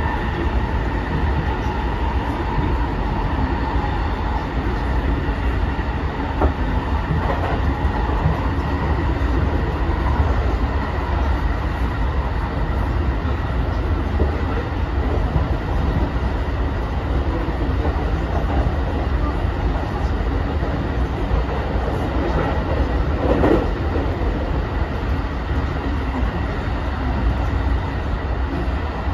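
Running noise inside a JR West 223 series 2000-subseries trailer car (SaHa 223-2175) at speed: a steady rumble of wheels on rail and the car body, with a faint steady whine. A brief louder squeal comes about three-quarters of the way through.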